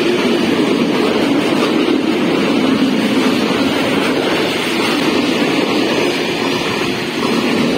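Open high-sided freight wagons of a long freight train rolling past close by: a loud, steady rumble of steel wheels on the rails.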